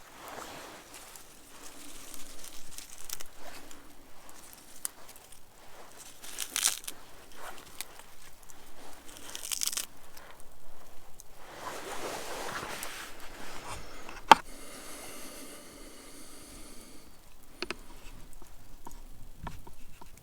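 Irregular crinkling and rustling of handled material, with one sharp click about 14 seconds in.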